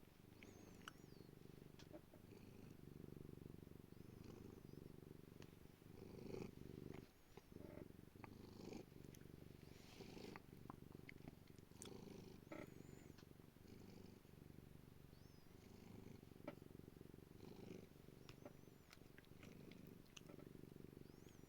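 Domestic cat purring steadily and close up, with brief rustles and soft clicks scattered through.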